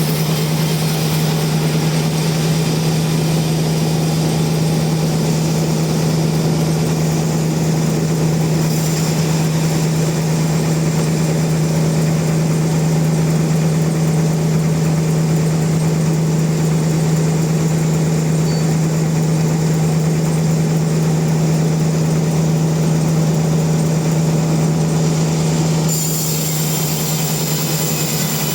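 Sawmill machinery running steadily with a strong low hum and dense mechanical noise. The sound changes abruptly near the end.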